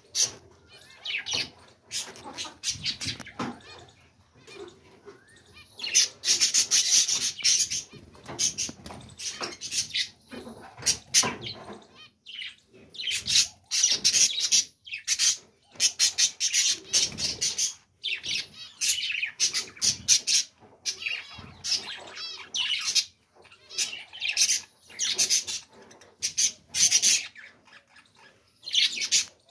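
Pet budgerigars chattering and squawking in repeated bursts of rapid high chirps, with short pauses between the bursts.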